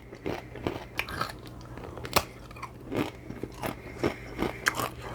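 Close, wet chewing with crunchy bites, repeating every half-second or so, as a person eats a Mexican shrimp cocktail.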